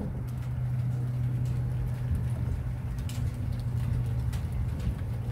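Rain during a thunderstorm, with scattered drops ticking close by, over a steady low hum.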